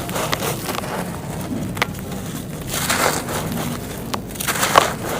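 Dry clay being crushed and crumbling: gritty crunching with several sharp cracks.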